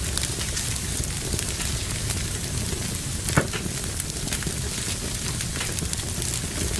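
Fire burning in a fireplace, crackling steadily with a low rumble, and one sharp, louder pop about halfway through.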